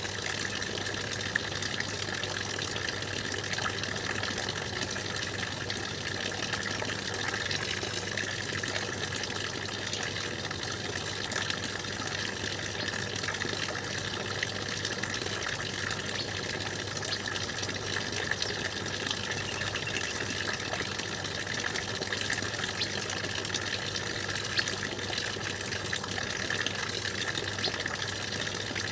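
Stream water running and splashing steadily, with no break or change.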